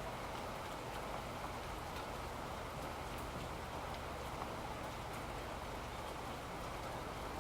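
Steady rain falling, an even hiss with a few faint scattered drip ticks.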